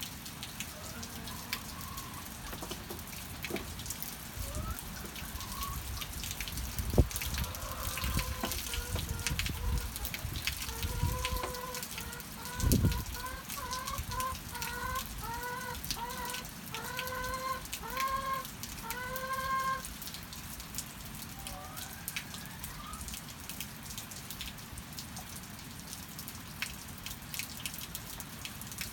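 Steady rain falling with scattered drops tapping, and chickens clucking, one hen giving a run of about fifteen short, evenly spaced clucks in the middle. Two dull thumps stand out, one about a quarter of the way through and a louder one near the middle.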